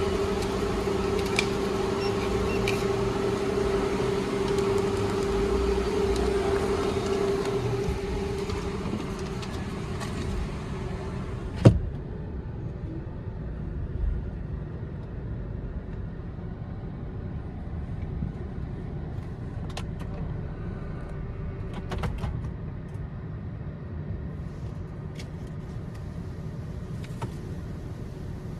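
Istobal M1 rollover car wash machine working over the car, heard from inside the cabin: a steady tone with spraying hiss for about the first ten seconds, then the hiss dies away, a single sharp knock comes, and a lower steady machine rumble goes on with a few light clicks.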